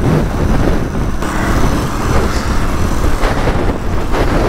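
Two-stroke trials motorcycle engine running as the bike is ridden, with wind buffeting the microphone.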